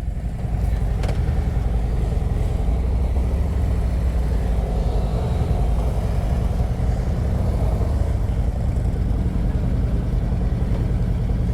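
Motorcycle engine running steadily with an even low drone, with no rise or fall in pitch.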